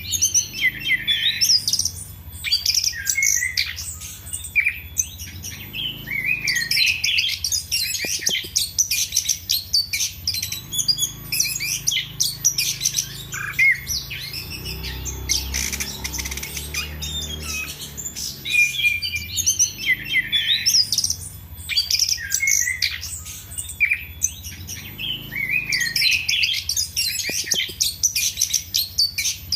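Chestnut-capped thrush (anis kembang) singing a busy, varied song of rapid chirps, whistles and harsh notes in bursts, easing off briefly about halfway through, over a low steady hum.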